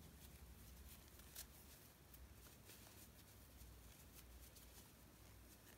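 Near silence, with a few faint soft clicks and rustles as a crochet hook pulls a yarn cord through knitted stitches.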